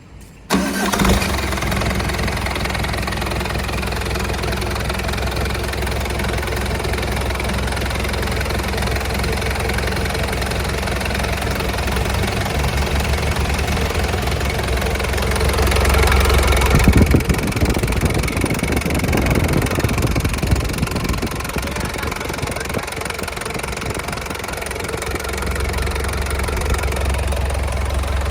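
A 4102QBZL four-cylinder diesel engine starts, catching within about a second, then runs at a steady idle. Partway through it revs up gradually for a few seconds and drops back suddenly, then idles on. The engine is sold as original and nearly new.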